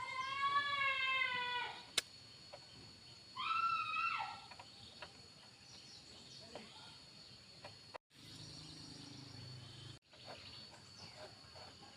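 An animal calling twice: a long drawn-out cry at the start, then a shorter one that rises and falls a couple of seconds later. A single sharp click comes between them, and a low hum starts and stops abruptly later on.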